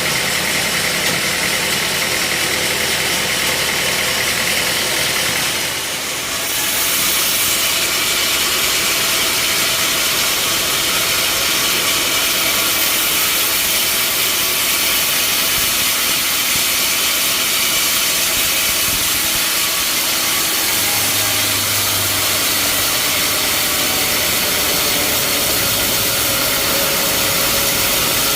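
Band sawmill running steadily, its blade cutting through a mahogany log with a dense high hiss over the motor's drone. The sound dips briefly about six seconds in, then the hiss comes back louder.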